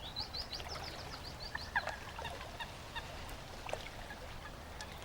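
Faint birdsong in woodland: a quick run of high chirps for the first second and a half, then scattered short calls.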